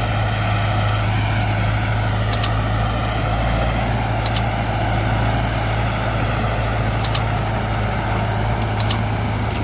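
Heavy diesel engine of a tractor or lorry running steadily under load, a deep continuous drone. Four sharp double clicks cut across it, spread through the stretch.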